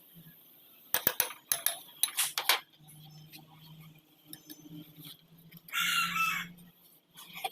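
A quick run of sharp metal clinks and knocks, the loudest part. A few seconds later comes a brief high-pitched squeal-like call lasting under a second.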